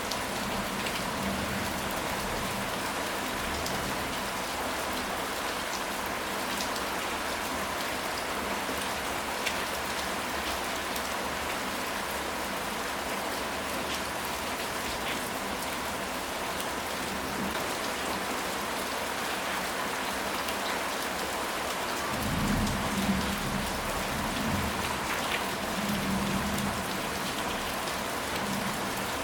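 Steady rain falling, with individual drops ticking through the hiss. About three-quarters of the way in, a low rumble of thunder rolls for several seconds.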